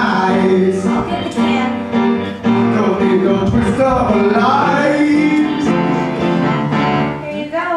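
Show tune: a voice singing over a band accompaniment.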